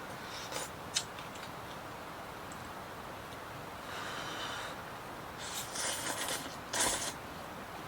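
Short noisy slurps and breaths of someone eating hot noodle soup, with a sharp utensil click about a second in, over a steady background hiss.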